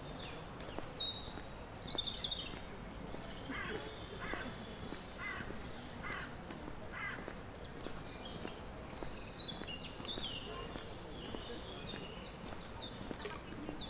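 Songbirds calling in the trees: high chirps near the start, a run of about six evenly spaced call notes in the middle, and a quick busy song near the end, over steady low outdoor background noise.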